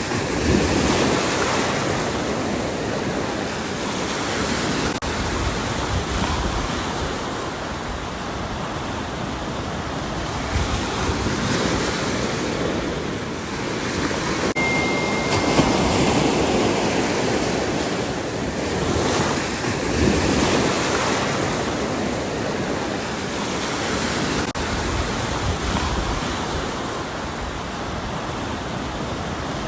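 Ocean waves breaking and washing on a shore, the surf swelling and easing every few seconds, with wind buffeting the microphone.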